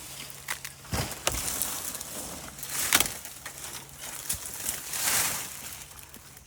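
Brush and plants being cleared: swells of rustling with a few sharp cracks, about a second in, again at three seconds and near four and a half seconds.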